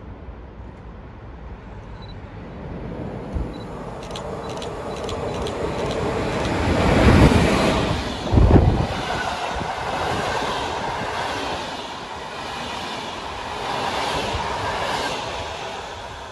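PKP InterCity passenger train running through the station at speed without stopping. It grows louder as it approaches, with a few sharp knocks from the wheels on the track. The front of the train passes about seven to nine seconds in, the loudest moments, then the coaches rumble past and the sound fades near the end.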